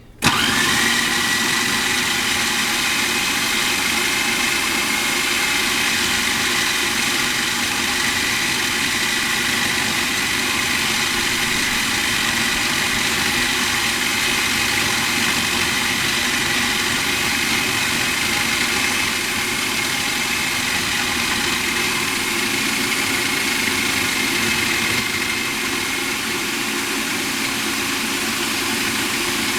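Food processor switched on and running steadily at full speed with a high whine, blending chickpeas into hummus.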